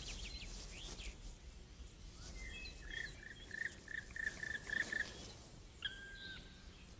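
Small birds singing in a meadow: a few quick chirps at first, then a run of short repeated notes, about three a second, and one more call near the end, over a faint outdoor background.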